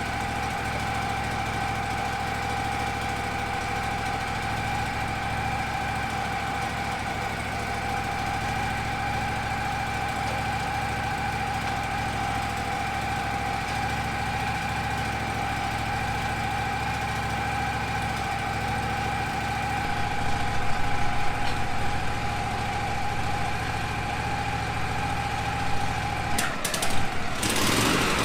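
Wood-Mizer portable band sawmill running steadily as it saws into a pine log: an engine hum with a steady whine over it. Near the end the whine stops abruptly and a few knocks follow.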